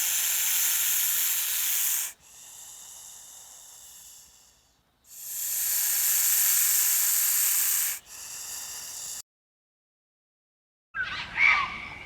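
An animal hissing: two long, loud hisses of about three seconds each, each trailing off into a quieter breathy hiss, then a short silence. Short bird-like calls start near the end.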